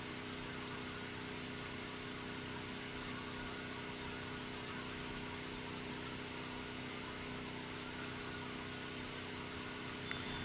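Machinery running steadily: a constant mechanical drone with a steady hum of a couple of tones over a noisy hiss, from a compressor-type machine that nobody can put a name to.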